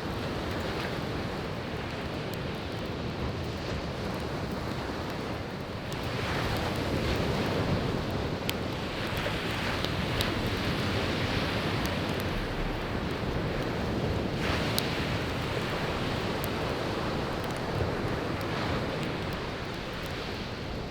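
Sea waves washing on a beach in a steady rush that swells louder about six seconds in and eases back after about fourteen seconds, with occasional sharp crackles from burning firewood.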